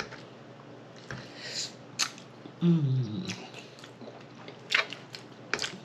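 A person eating close to the microphone: wet chewing with a handful of sharp lip smacks. About three seconds in comes a short hum that falls in pitch.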